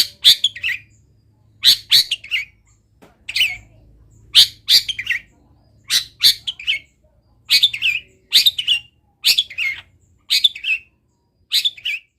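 Long-tailed shrike singing in short, sharp, repeated phrases, about one a second, its song filled with imitations of wild birds' calls.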